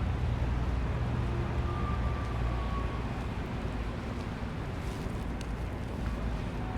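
Steady city street noise, mostly a low traffic rumble. A faint brief whine comes in about one and a half seconds in.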